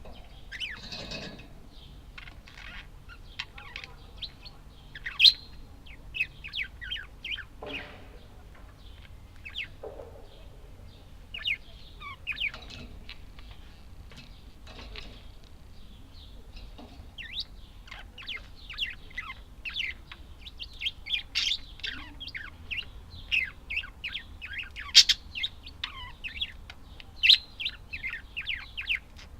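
Budgerigars chirping and chattering in many short, quick chirps, getting busier in the second half.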